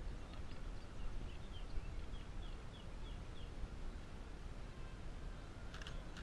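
A small bird gives a run of short, slightly falling chirps, about three a second, for a couple of seconds over a steady low outdoor rumble. A sharp click comes near the end.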